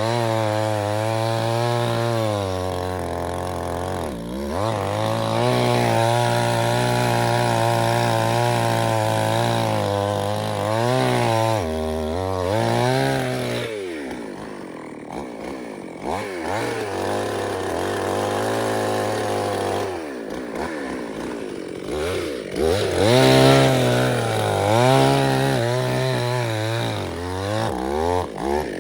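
Two-stroke chainsaw running under load. Its engine note drops and recovers several times as it bogs in the cut and revs back up, with rougher, uneven running in the middle.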